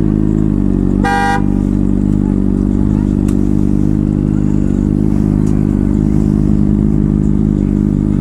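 Honda CBR600RR sport bike's engine idling steadily, with one short vehicle horn beep about a second in.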